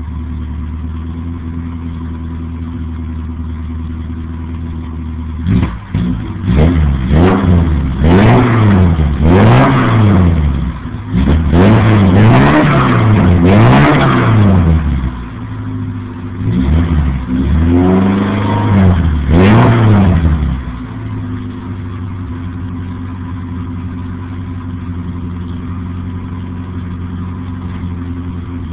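BMW 2002's four-cylinder engine through a straight-piped exhaust with no muffler, idling, then revved up and let fall back over and over for about fifteen seconds before settling back to a steady idle.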